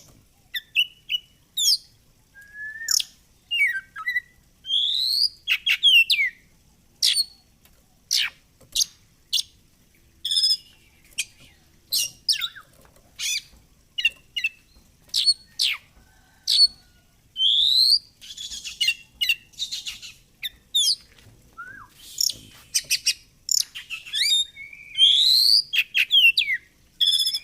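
Oriental magpie-robin (kacer) singing continuously: a fast, varied run of sharp whistles, rising sweeps and chirps, broken by a couple of harsh, buzzy rattles.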